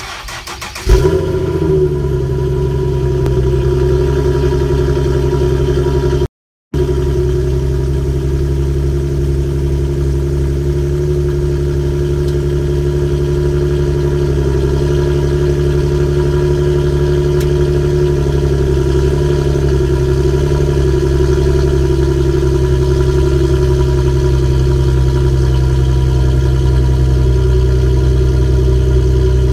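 Infiniti car engine cranked and catching about a second in, then idling steadily, heard at the exhaust tip on a cold start. The sound cuts out completely for a moment about six seconds in.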